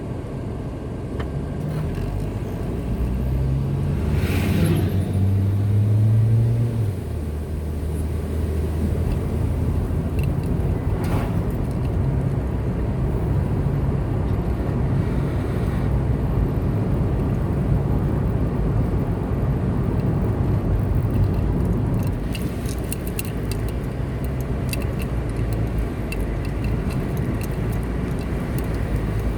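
Car driving on the road, engine and tyre noise: the engine hum climbs in pitch over the first few seconds, then settles into a steady cruise with a constant road rumble.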